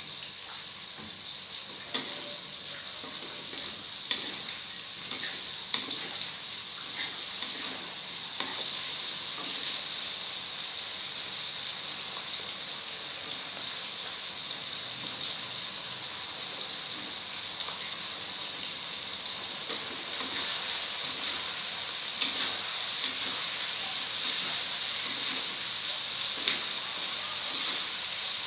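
Chopped chilies, shallots and sweet soy sauce sizzling steadily in a nonstick wok, with a wooden spatula scraping and tapping the pan now and then. The sizzle grows louder about two-thirds of the way through.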